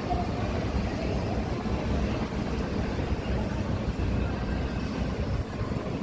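Steady city street noise: a low rumble of passing traffic with wind buffeting the microphone.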